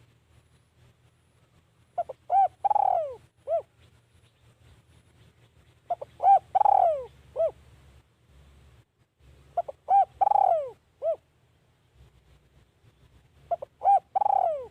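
Spotted dove cooing its phrase four times, about every four seconds: a couple of short coos, a longer falling coo and a short closing note.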